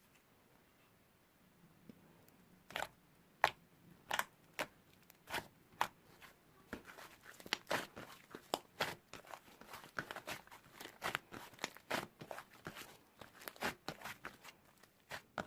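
Slime being squeezed and pressed by hand, giving irregular crackling clicks and pops that start about two and a half seconds in and grow denser.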